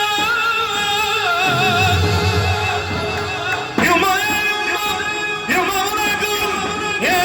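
Arabic song with instrumental backing: a long, wavering melodic line with heavy vibrato, new phrases entering sharply about four, five and a half and seven seconds in.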